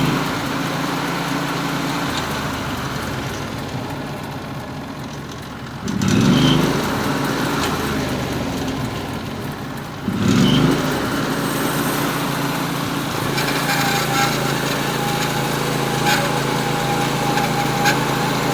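Norwood HD36V2 band sawmill's engine running, revving up twice, about six and ten seconds in, as the mill starts its cut through a wide poplar log at maximum width. A steady high whine joins later on, as the blade works through the cut.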